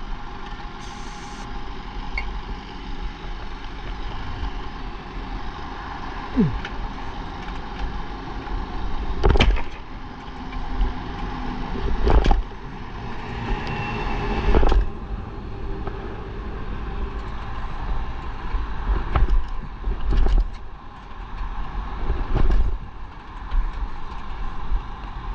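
Yamaha SR500 being kicked over without starting: about half a dozen heavy thumps at irregular intervals as the kickstarter is stomped, with the flooded single-cylinder engine not catching. A steady engine hum runs underneath for the first half and then drops away.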